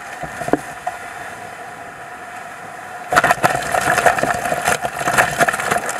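Water rushing past a Volvo Ocean 65 racing yacht sailing at speed, a steady hiss with a faint whine, then about three seconds in a wave of spray crashes over the deck and helm, a loud crackling wash of water that lasts to the end.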